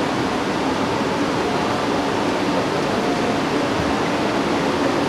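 Steady rushing water from an artificial waterfall, an even unbroken noise with no drumming or music over it.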